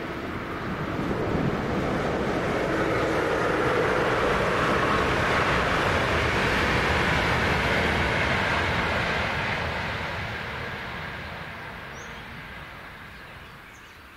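RegioJet passenger train passing through: a steady rumble of wheels on rails that swells over the first couple of seconds, holds, then fades away over the last few seconds.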